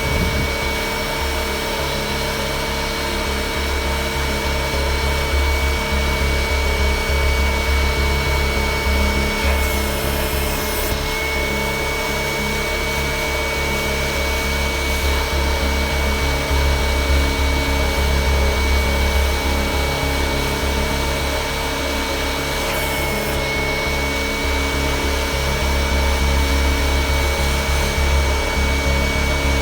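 Motor of an electric carpet-cleaning machine running with a steady whine over a rough rubbing, scrubbing noise. The whine dips briefly in pitch about ten seconds in and again later, as if the motor were loaded.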